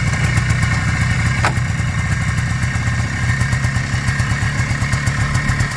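Two-stroke single-cylinder engine of a 2002 Polaris Trail Blazer ATV running steadily at a low speed, with one short click about a second and a half in. The engine is freshly rebuilt and not yet tuned.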